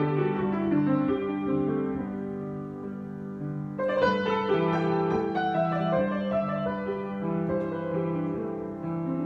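Solo piano improvisation: chords held over a repeating low bass figure, with a loud fresh chord struck about four seconds in.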